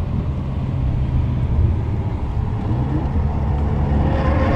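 Renault Mégane RS 265's turbocharged 2.0-litre four-cylinder engine running at speed, heard inside the cabin together with tyre and road noise; the engine note holds steady with small shifts in pitch.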